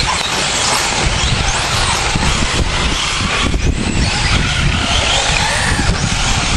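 Radio-controlled 4WD short course trucks racing: a steady wash of motor and tyre noise with faint whines rising and falling as the drivers throttle on and off.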